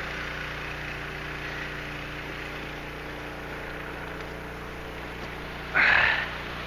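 Gasoline engine of a suction gold dredge running steadily at a distance, an even mechanical hum. About six seconds in, a short, loud hissing burst cuts across it.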